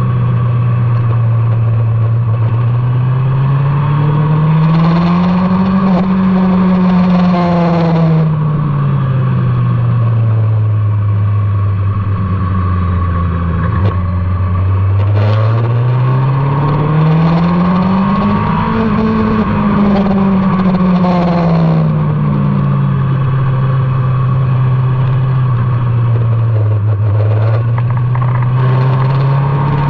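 Motorcycle engine on a race track, its pitch rising slowly as the rider accelerates and falling as he eases off, twice over, with a third rise starting near the end. A steady rush of wind runs underneath.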